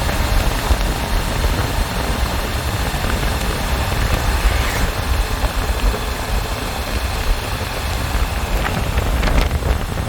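Motorcycle on the move: heavy, steady wind rumble on the microphone over engine and road noise.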